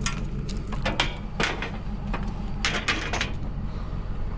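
A vehicle's steady low rumble while driving, with several sharp knocks and rattles, a cluster of them near three seconds in.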